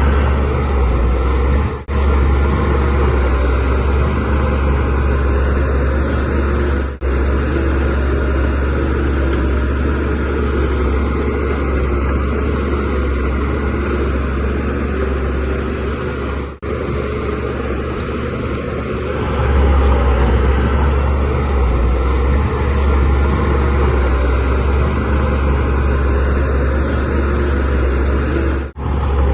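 Shantui DH17C3Pro bulldozer's diesel engine running under working load, a steady deep drone. It breaks off for an instant four times and swells louder for a few seconds about two-thirds of the way through.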